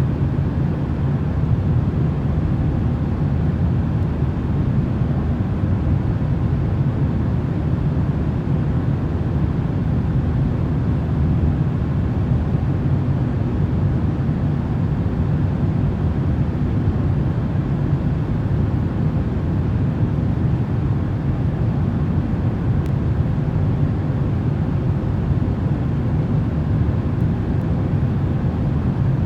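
Steady, unchanging white-noise track for sleep: an even, low rumbling hiss, heaviest in the bass, with no breaks.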